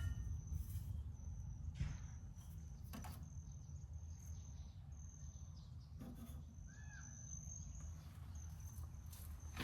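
Insects trilling in a steady high note that breaks off and starts again several times, over a continuous low rumble, with a few faint clicks.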